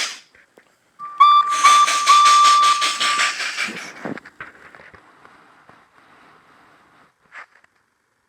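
Steam locomotive whistle sounding a few short toots and then a longer blast over rhythmic chuffing as the engine pulls away. The chuffing fades off over the next few seconds, and there is a short tap near the end.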